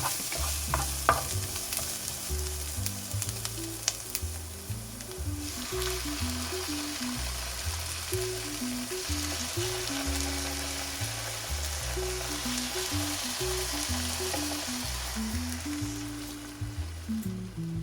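Food sizzling as it fries in a pan, the sizzle growing louder about five seconds in, with a few light clicks near the start. Background music plays underneath.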